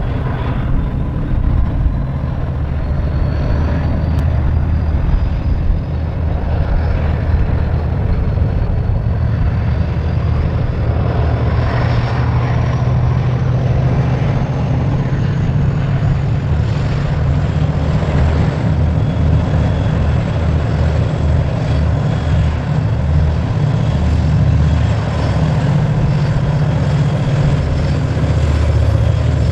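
Diesel locomotive engine running at full throttle: a heavy, steady low rumble, with a faint high whine that rises slowly in pitch over the first twenty seconds or so.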